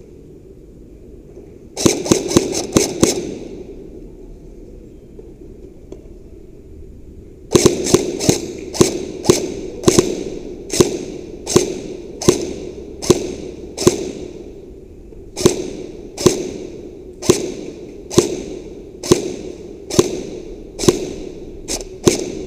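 Airsoft gun firing: a quick string of about six shots near the start, then single shots at about two a second, with a short pause midway.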